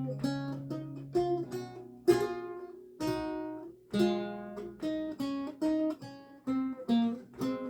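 Solo lute music: single plucked notes and chords, each ringing and fading, picked at an unhurried pace.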